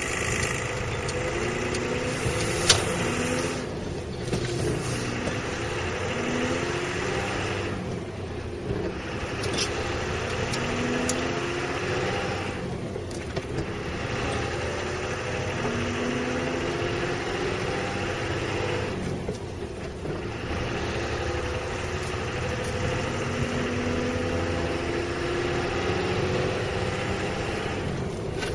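MAN truck's diesel engine heard from inside the cab while driving, its note climbing and falling back several times as the truck pulls through the gears. There is one sharp click about three seconds in.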